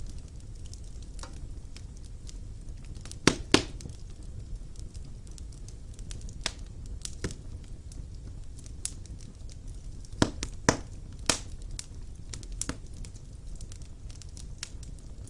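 Wood fire burning in a fireplace: a steady low rumble of the flames with irregular sharp crackles and pops, the loudest two close together about three seconds in and a cluster of pops about ten seconds in.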